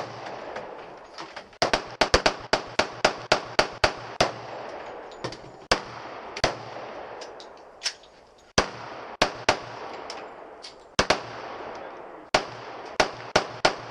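Gunshots at a shooting range, each with a short echo: a fast string of about ten shots a second and a half in, then scattered single shots and close pairs, some loud and some fainter.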